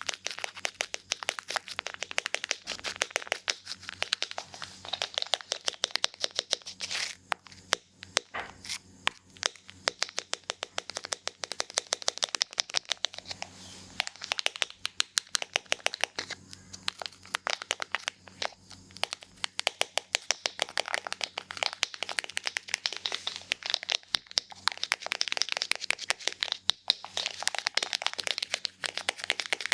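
Barber's scissors snipping hair rapidly, a dense run of sharp crisp clicks with a brief lull about eight seconds in.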